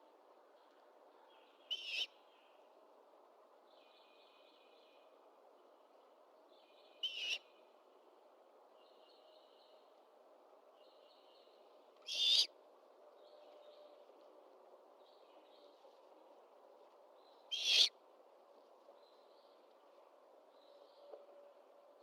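Great horned owl giving four short, raspy screeching calls, about five seconds apart. Fainter chattering bird calls come in between them, over a steady low background hiss.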